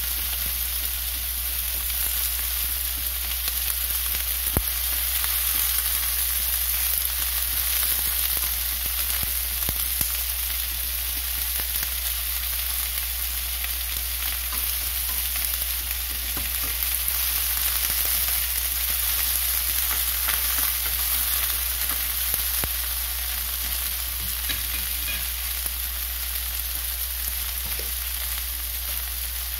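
Filefish pieces with scallion, ginger and garlic sizzling steadily in a nonstick frying pan, with a few light clicks of chopsticks moving them about.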